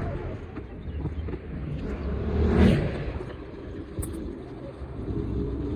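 Low rumble of city street traffic, with one vehicle passing close by about two and a half seconds in.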